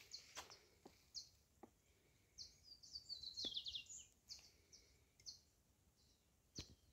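Faint small-bird chirps: short high notes scattered throughout, with a quick run of falling notes about three seconds in. A few faint clicks are heard as well.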